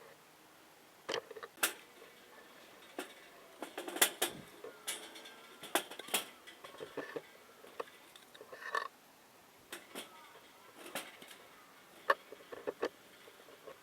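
Sparse, irregular clicks, clinks and knocks of metal gear being handled, a few ringing briefly.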